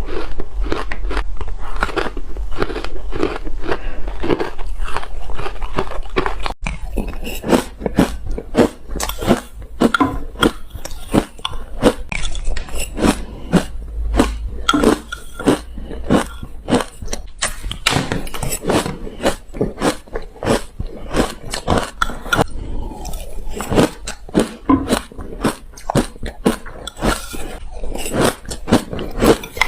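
Ice being bitten and chewed close to the microphone: a continuous run of crisp crunches and crackles. A low hum under the crunching stops about six seconds in, and the crunches become more separate after that.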